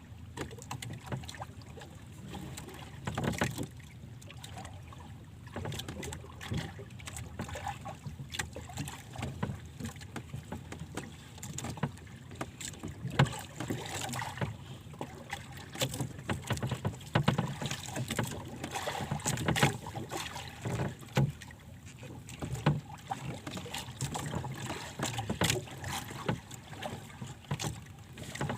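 Monsoon wind gusting against the microphone in an uneven low rumble, with irregular knocks and clicks throughout.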